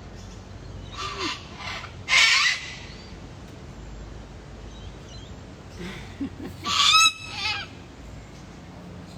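Bird calls in two loud harsh bursts, one about two seconds in and another about seven seconds in, with a few fainter calls around them.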